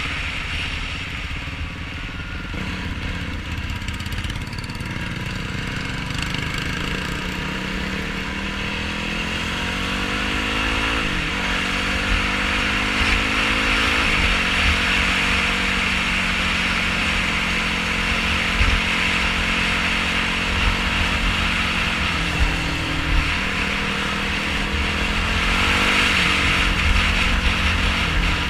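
Yamaha YFZ450R quad's single-cylinder four-stroke engine being ridden off-road. Its pitch climbs steadily under throttle and drops sharply several times, around a third of the way in, about halfway and again near the three-quarter mark, as the rider shifts or backs off. A constant low rumble runs underneath.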